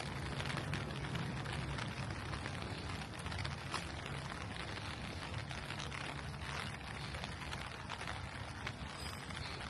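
Steady rain falling, with many small drop ticks, over a low steady city hum.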